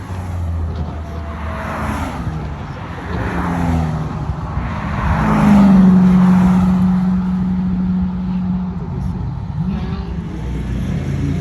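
Sports car engines running as cars drive past one after another. The loudest passes about halfway through and holds a steady engine note for a few seconds.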